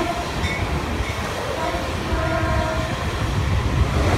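Caltrain diesel commuter train passing close by, a steady low rumble of engine and wheels on the rails, with faint horn notes about two seconds in.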